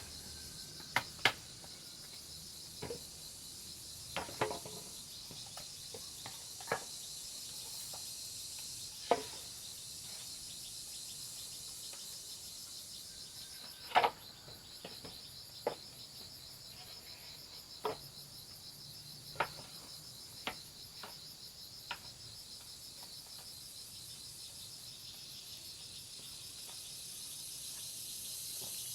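A steady, high insect chorus, with about a dozen sharp knocks and taps at irregular intervals; the loudest comes about halfway through.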